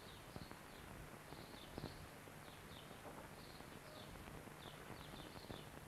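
Faint bird chirping: short high calls repeating a few times a second. Under it is a steady low hum and hiss.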